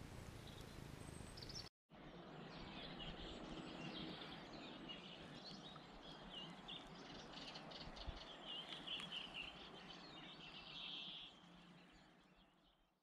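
Faint woodland ambience with many small birds chirping and twittering, fading out near the end.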